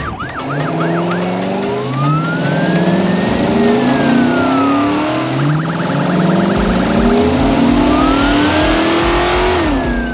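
Car engine sound effects revving up again and again, as if shifting through gears, under a siren wailing slowly up and down twice, with a short burst of rapid yelps near the middle and a low rumble in the second half.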